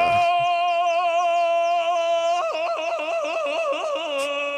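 A man's loud Tarzan-style yodelling call: one long high note held steady, then breaking into quick up-and-down warbles about halfway through, ending on a lower held note.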